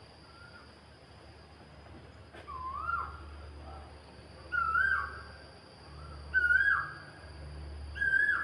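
A bird calling over and over, about five short swooping notes roughly every second and a half to two seconds, each louder and a little higher than the last.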